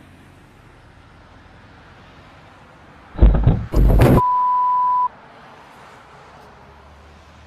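Low, steady road and engine noise inside a car, then a loud collision about three seconds in lasting about a second, followed at once by a steady high beep for about a second.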